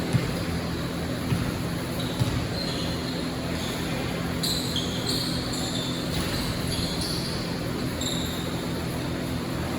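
Basketball game in a gym: a ball bounces a few times and sneakers squeak sharply on the court, over a steady murmur of crowd and room noise.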